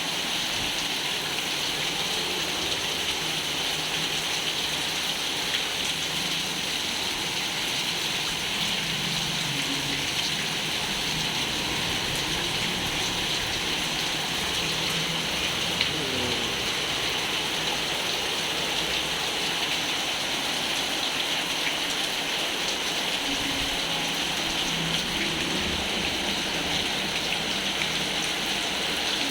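Steady rain falling onto a koi pond, an even hiss of drops on the water.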